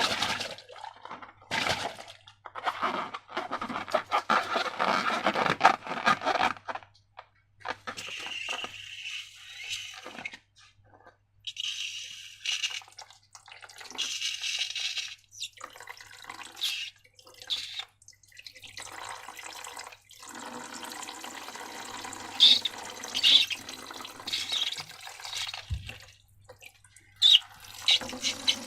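Wet, sticky slime being squeezed and squished, squelching and dripping in irregular bursts with short pauses.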